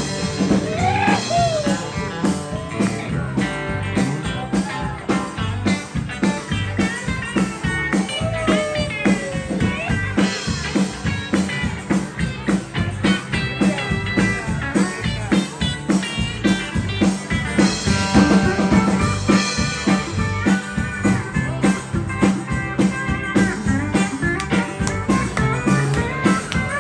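Instrumental break of a country song played by a band: electric lead guitar with bending, sliding notes over bass and a steady drum beat.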